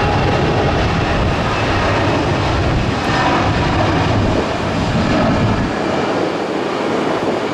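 Airbus A319 jet airliner's engines running as it departs, a loud steady jet roar with a heavy low rumble. The low rumble drops away about three-quarters of the way through.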